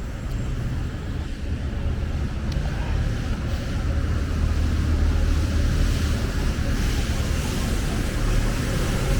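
Wind buffeting the microphone in a snowstorm, a steady low rumble, with a hiss that grows louder from about four seconds in.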